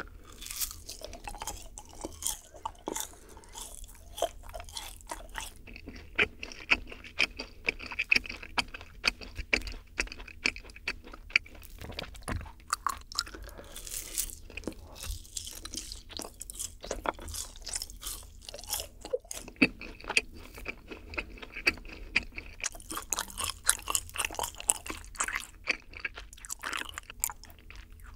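Close-miked biting and chewing of yakgwa, a honey-soaked fried Korean cookie: many short, sharp crunches, several a second.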